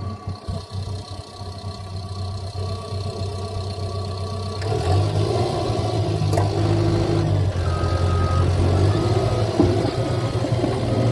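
Caterpillar bulldozer's diesel engine running steadily, then working harder about halfway through as its sound grows louder and fuller. Short high tones repeat over the last few seconds.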